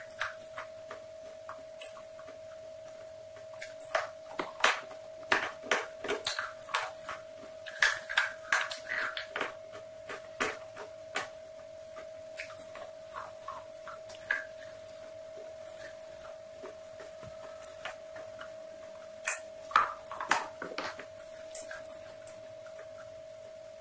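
Close-miked crunching and snapping as a hard, brittle white chalk-like stick is bitten and chewed right at the microphone. The sharp cracks come in clusters, with quieter spells between them, over a steady hum.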